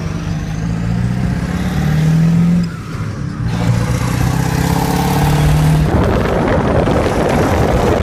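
A truck engine running and pulling, heard from inside the cab, with a short drop about three seconds in like a gear change. From about six seconds in, a louder rush of road and wind noise takes over.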